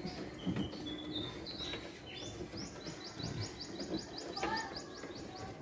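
A small bird singing: a few short high whistled notes, then a fast trill of rising notes, about five a second, for about three seconds. Faint low knocks of hands handling tape and wiring underneath.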